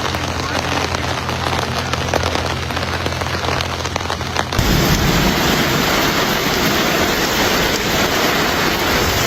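Heavy rain pouring down as a steady hiss, with a low steady hum beneath it. About halfway through, the sound switches abruptly to a louder, fuller downpour.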